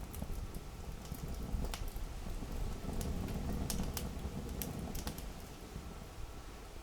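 Wood campfire crackling: irregular sharp pops and snaps, thickest through the middle of the stretch, over a low steady rumble.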